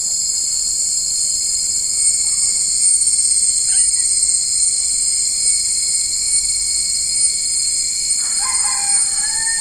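Dense, steady, high-pitched chorus of insects ('kumbang'). Near the end a single drawn-out call, about a second and a half long, rises over it.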